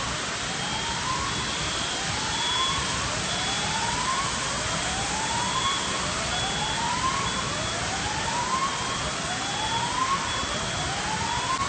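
A whooping siren: a rising wail repeated about once every second and a quarter, over a loud, steady hiss.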